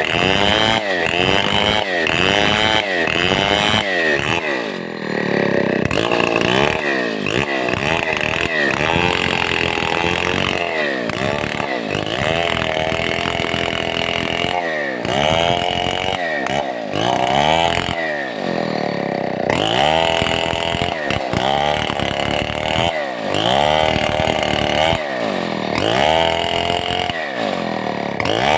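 Stihl 070 two-stroke chainsaw running hard, its engine pitch dropping and climbing back over and over, mostly about once a second, as it is worked through wood.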